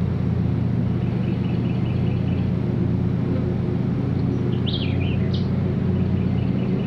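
A songbird singing over a steady low hum: two runs of quick repeated notes, and a single swooping up-and-down call about five seconds in.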